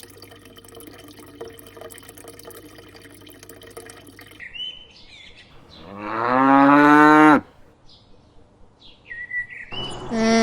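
A cow mooing once, a long loud call about six seconds in, with small birds chirping around it. Before that, for the first four seconds, running water with a low steady hum.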